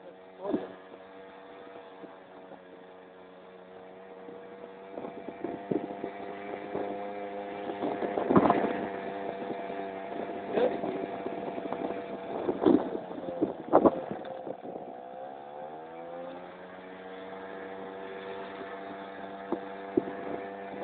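Keeway Hurricane 50cc two-stroke scooter engine running steadily under way. Its pitch drops about two-thirds of the way through as it slows, then settles. A few sharp thumps cut in over it.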